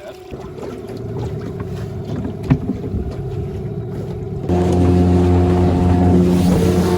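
Small boat's outboard motor running steadily at trolling speed, with a single knock about two and a half seconds in. Just past four seconds the engine note turns suddenly louder and steadier.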